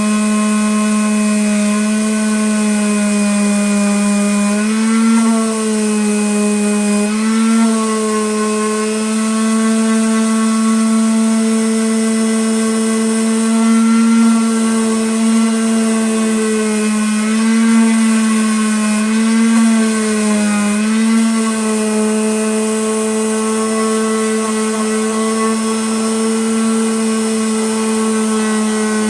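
Electric power sander running steadily on a wood round of ash, its motor pitch dipping briefly several times.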